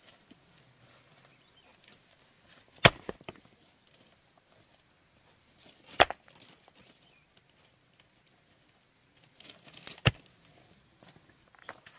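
Three sharp strikes of a tool on wood, about three to four seconds apart, each followed by a lighter knock or two.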